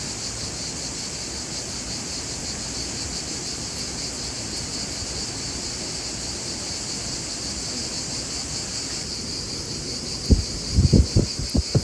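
Crickets chirping in a steady, fast-pulsing chorus. Near the end come a few dull low thumps.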